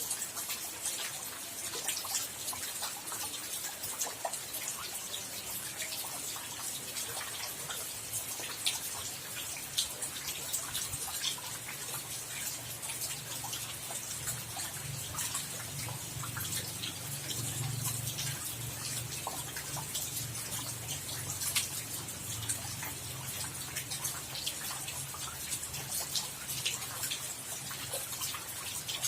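Rain falling, with many separate drops dripping and ticking close by over a steady hiss. A low rumble swells from about ten seconds in, is strongest around the middle and fades near the end.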